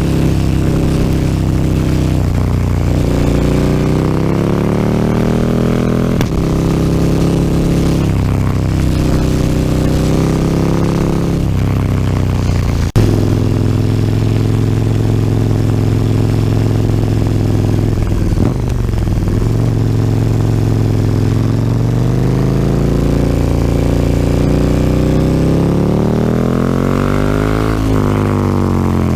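KTM 1290 Super Duke R's V-twin engine through an Akrapovic slip-on exhaust under way, revs climbing and dropping at each upshift several times, then holding steady. A sharp click comes about halfway through; near the end the revs climb once more and fall away as the throttle closes.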